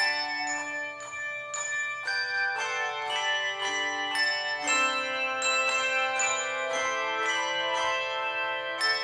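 Handbell choir playing a tune: bells struck in chords about twice a second, each note ringing on under the next.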